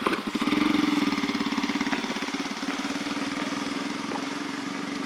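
A small engine running steadily at a fast, even idle.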